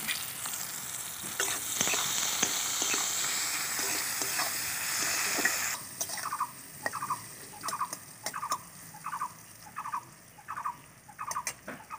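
Sliced eggplant sizzling in hot mustard oil in an aluminium kadai, with a spatula scraping and clicking against the pan. About six seconds in the sizzle suddenly drops away, leaving the spatula scraping the pan in steady strokes a little faster than once a second.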